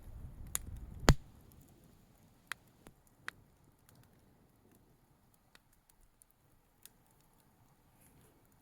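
Bonfire crackling: burning wood giving off scattered sharp pops, the loudest about a second in, with a low rumble that stops just after it.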